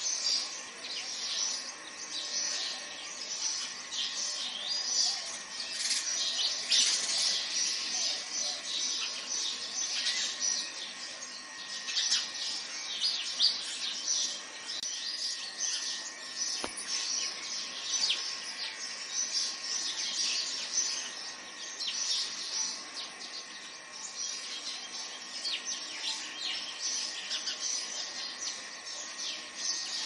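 Songbirds chirping and twittering without a break, a dense chorus of many short, high calls overlapping one another.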